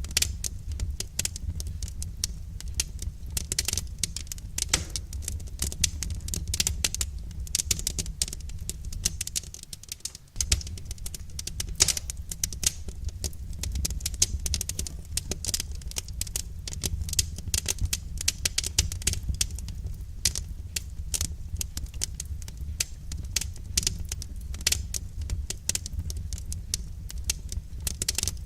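Wood fire crackling in a fireplace: a dense, irregular stream of sharp pops and snaps over a steady low rumble, which drops away for a moment about ten seconds in.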